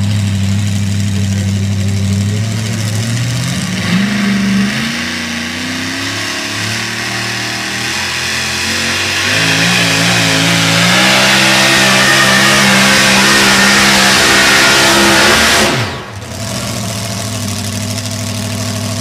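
Super modified four-wheel-drive pulling truck's engine under load on a pull, running at high revs and climbing in pitch twice before holding near full throttle. About sixteen seconds in the revs drop suddenly and the engine settles to a steadier note.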